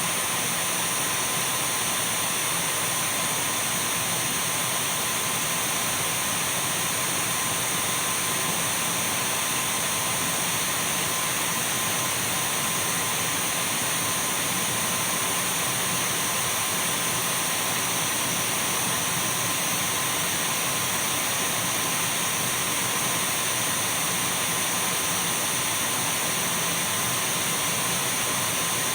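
Dyson V12 cordless stick vacuum running steadily: an unchanging rush of air with a steady mid tone and a thin high whine from the motor.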